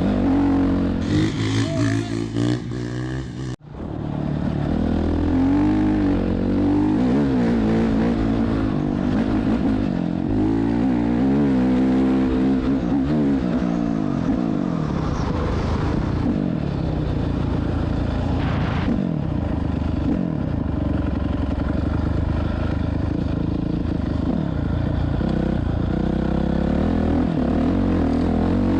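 Motorcycle engines running and revving, their pitch rising and falling repeatedly as the bikes accelerate and ease off. There is a brief burst of hiss in the first few seconds.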